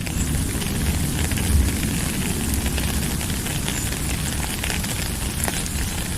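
Steady rain, a dense even hiss scattered with small drop patters, over a low rumble.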